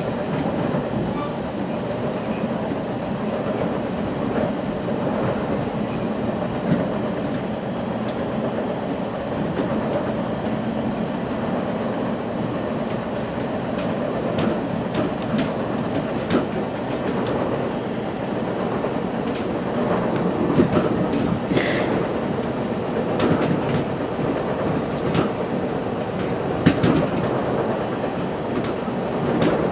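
West Coast Express commuter train heard from inside the passenger car while running along the line: a steady rumble with the wheels clicking over the rail joints, the clicks coming more often in the second half.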